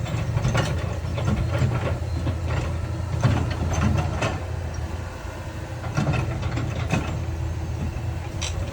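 Heavy diesel earthmoving machinery running steadily, with scattered metallic clanks and knocks throughout.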